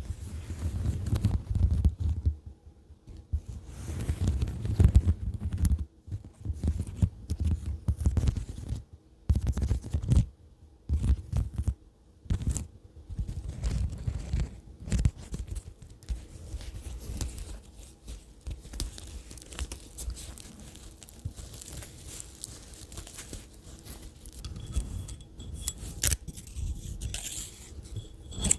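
Fingers tapping and scratching close up on the microphone or an object for ASMR: rapid, irregular taps, deep and boomy through the first half, then lighter and crisper.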